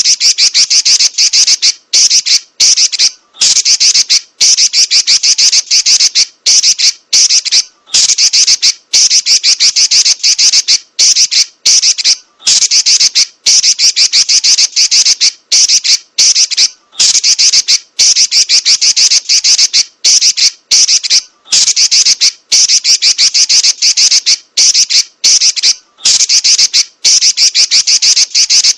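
Female Pekin robin (red-billed leiothrix) giving a rapid, high-pitched, rattling chatter that runs into rolling trills, in long stretches broken by brief pauses every second or two.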